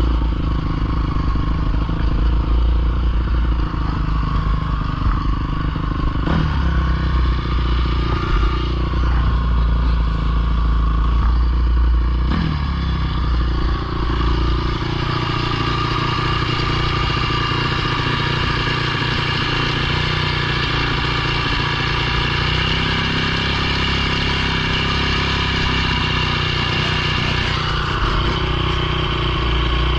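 Dirt bike engine running continuously, its pitch dipping briefly a couple of times, then holding steadier from about halfway through.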